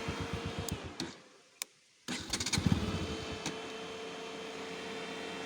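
Motorcycle engine idling, then cut off about a second in. After a short silence and a few clicks, the bike's electric radiator cooling fan starts and runs with a steady whir. The fan has come on because the engine is very hot.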